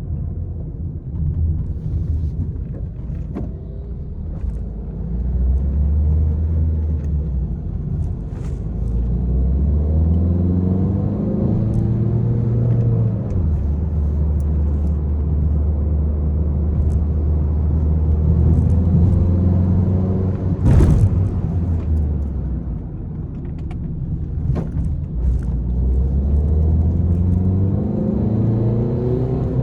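Peugeot 301 engine pulling hard, its pitch climbing under acceleration and dropping at gear changes several times, with a steady stretch in the middle and road rumble throughout. A single sharp thump comes about twenty seconds in.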